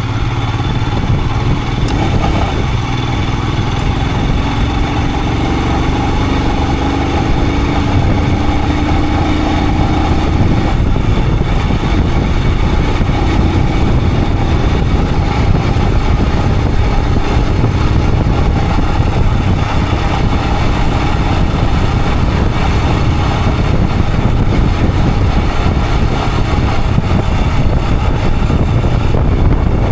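Royal Enfield Himalayan 411's single-cylinder 411 cc engine running steadily under way, mixed with wind and road noise. A fainter tone glides slowly up in pitch between about three and eleven seconds in.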